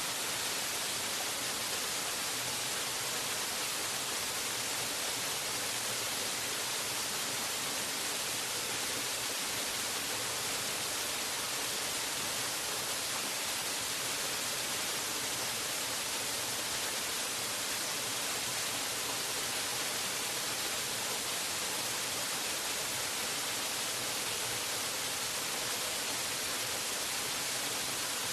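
Waterfall: falling water rushing in a steady, even hiss that never changes.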